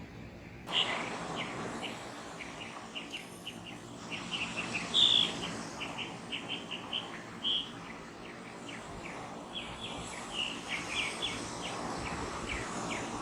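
Birds chirping: a steady run of many short, high calls, several loud single notes among them, over a constant background hiss.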